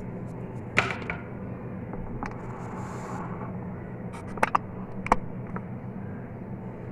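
Kitchen utensils and cookware clinking and knocking, a sharp knock about a second in and a quick cluster of three around four to five seconds in, over a steady low hum.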